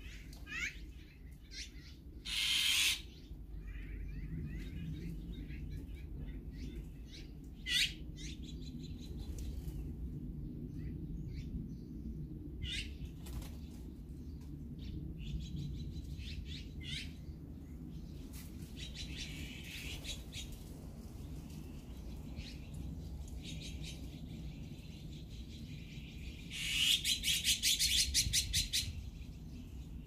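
Wild birds calling: a few short, loud, harsh calls and scattered fainter chirps, then near the end a loud rapid chattering run lasting a couple of seconds, over a steady low background noise.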